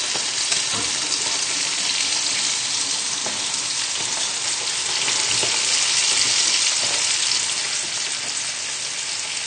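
Hot oil sizzling steadily with faint crackles: a batch of whitebait deep-frying in a pan of oil, with cod frying skin-side down in a second pan.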